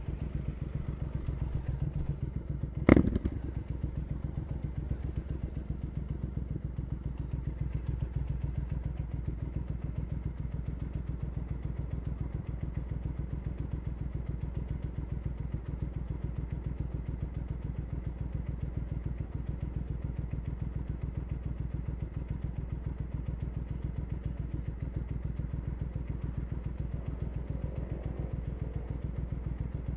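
Triumph Scrambler 900's parallel-twin engine idling steadily through an Arrow exhaust, with an even low pulse. A single sharp clunk comes about three seconds in.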